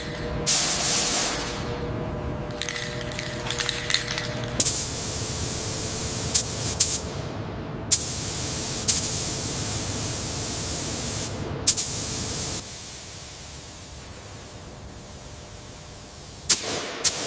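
Compressed-air paint spray gun hissing as primer or paint is sprayed, the spray cutting in and out abruptly several times. A faint steady hum lies under it for the first few seconds, and the spray is quieter for a few seconds near the end before sharp bursts return.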